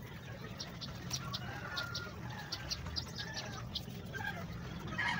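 Birds calling: a run of short high chirps with a few lower, bending calls and a louder call near the end, over a steady low background hum.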